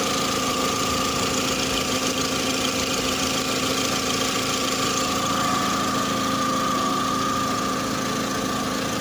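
2003 Volkswagen Beetle's 2.0-litre four-cylinder engine idling steadily with a faint steady whine, running smoothly after being swapped in for an engine that had blown its head gasket.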